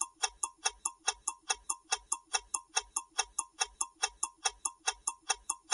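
Countdown timer sound effect: a clock ticking steadily, about four or five ticks a second.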